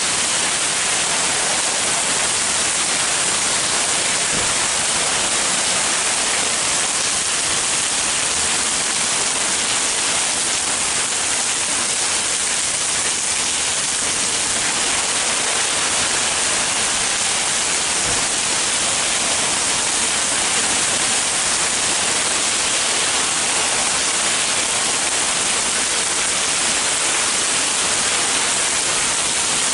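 Heavy rain pouring down as a loud, steady hiss with no letup.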